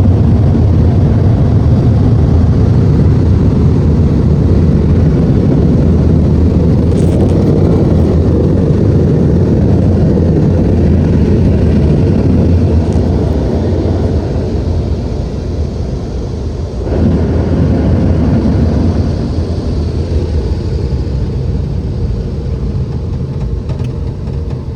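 Automatic car wash machinery running around the car, a loud, steady low rush heard from inside the car. It eases off about two-thirds of the way through, comes back briefly, then fades.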